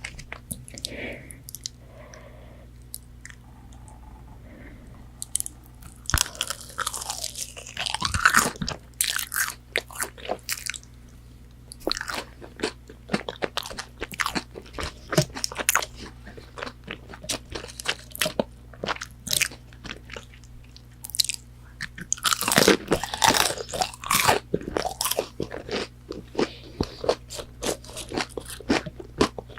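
Crunching bites into crispy McDonald's chicken nuggets and chewing, with two loud bites, one about a quarter of the way through and one about three quarters through, and crisp crunchy chewing in between.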